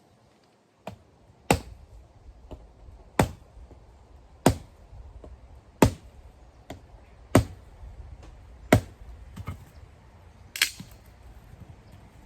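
Footsteps walking at a steady pace, about one and a half steps a second, every other step landing with a louder, sharp knock.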